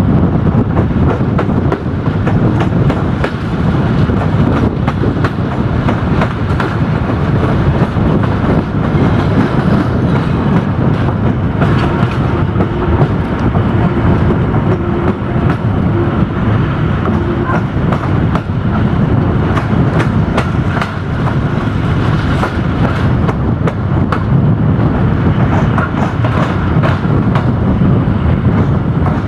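Old Malaxa diesel railcar running at speed, heard through an open side window: a steady rumble of wheels and running gear with frequent clicks from the rail joints.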